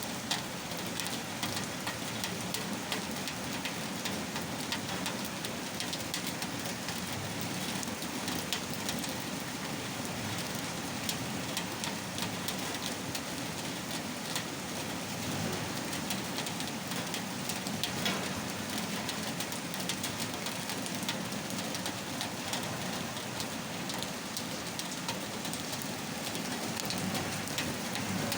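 Steady rain falling, with many individual drops heard as small sharp ticks over an even hiss.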